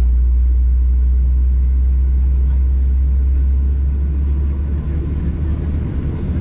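Steady low rumble inside the cabin of a Boeing 737-800 on the ground, its CFM56 engines running before takeoff. From about four seconds in, the rumble turns slightly rougher and more uneven.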